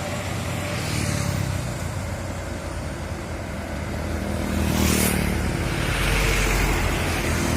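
Heavy diesel truck engines running under load on a steep climb, with a short hiss about five seconds in.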